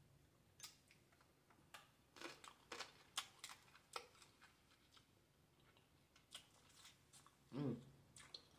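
Faint mouth sounds of someone eating boiled blue crab meat: scattered soft clicks and smacks of chewing, with a brief hum about seven and a half seconds in.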